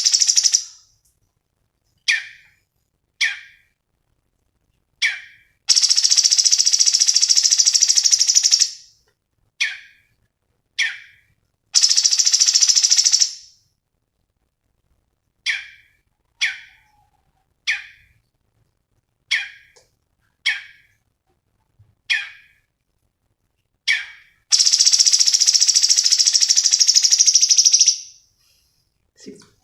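Cucak cungkok songbird calling: a series of short sharp chirps about a second apart, broken by three long buzzing rattles of two to three seconds each.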